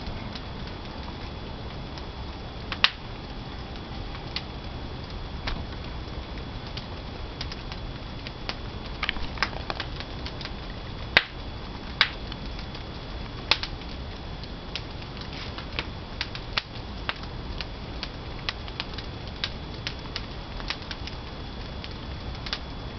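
Pine firewood burning in a wood-fired kiln, crackling with irregular sharp pops over a steady low rush of the fire, a few pops louder than the rest.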